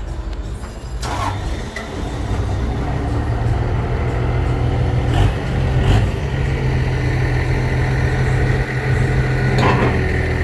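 Caterpillar C15 inline-six diesel of a Peterbilt 379 tractor running. It grows louder from about a second in, then holds steady, with a few sharp clicks.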